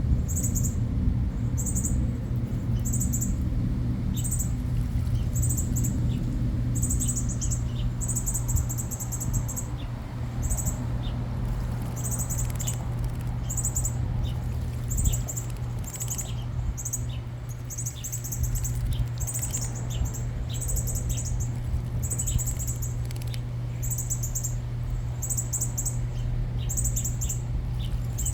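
Small backyard birds chirping: short, high-pitched buzzy chirps repeating roughly once a second, with faint quick ticks mixed in, over a steady low hum.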